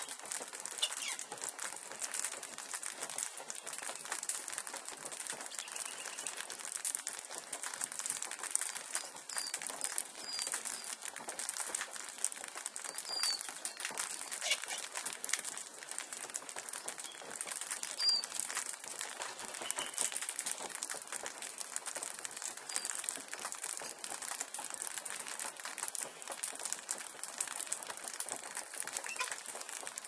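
Steady crackling and rustling noise, with a few short, high bird chirps scattered through it.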